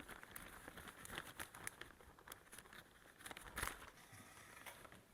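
Faint rustling and crinkling from hands coating chicken wings in flour, with scattered light taps and one sharper knock about three and a half seconds in.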